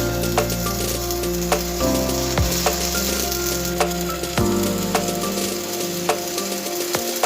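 Steady crackling sizzle with scattered sharp pops, over background music with sustained low chords that change every second or two.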